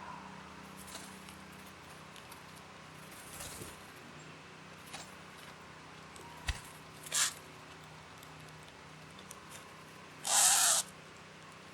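A bird at a backyard feeder giving one loud, harsh, rasping burst about ten seconds in, after a few fainter short chips and a soft thump over a quiet hiss.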